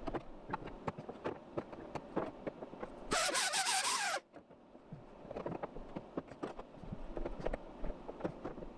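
A power tool runs in one short burst of about a second, some three seconds in, its pitch dropping as it bears on the work. Scattered light taps and clicks of metal being handled sound around it.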